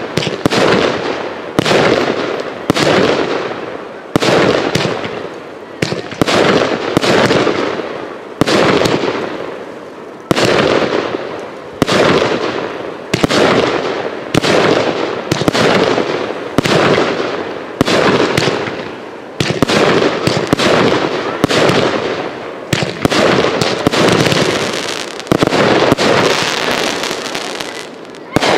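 Display fireworks shells bursting in steady succession, a sharp bang every second or so, each one trailing off into a fading crackle and rumble before the next.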